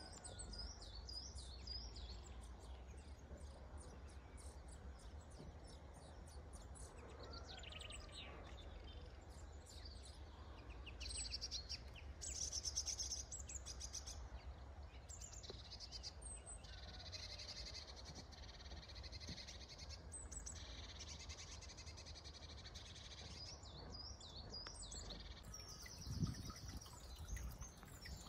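Several small birds chirping and singing in short, repeated calls and trills, over a low steady rumble. A brief low thump comes near the end.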